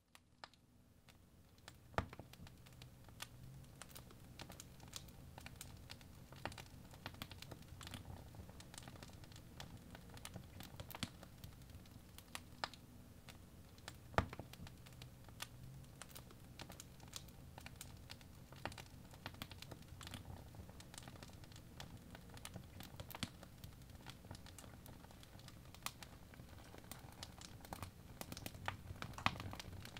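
Birch logs burning in a fireplace, crackling with many small pops and a few sharper snaps over the low, steady rumble of the flames. The sound fades in at the start.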